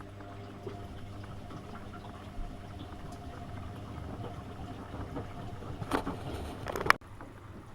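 AEG Öko-Lavamat 72520 washing machine running a boil-wash cycle: a steady low hum with water sloshing in the drum. About six seconds in a louder rush of noise builds and cuts off sharply with a click.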